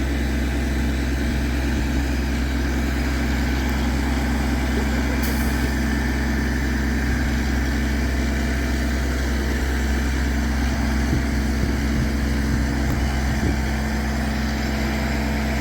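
Heavy crane engine running steadily with an even low hum while it holds and lowers a suspended building.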